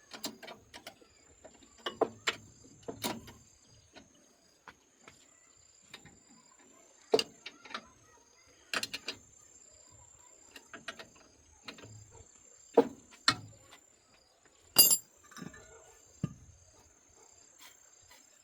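Irregular sharp clinks and knocks of hand tools and metal parts being handled during repair work on a rice separating machine, the loudest strike near the end. A steady high insect chirring runs behind.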